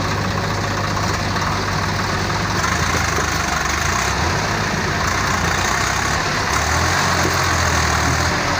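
Heavy diesel engines running steadily, their low engine note shifting in pitch about two and a half seconds in and again after about six and a half seconds.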